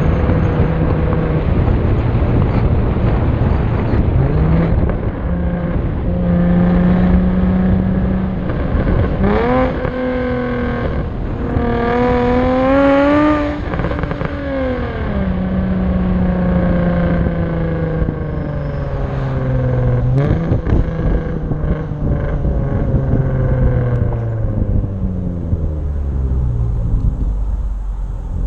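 Jaguar F-Type V6 S's supercharged 3.0-litre V6 running through an aftermarket exhaust with high-flow catalytic converters and the resonator deleted, under way at changing revs. The pitch jumps up sharply a few times, climbs to its highest a little before the middle, then falls away slowly as the car comes off the throttle, with one more quick rise in revs about two-thirds of the way through.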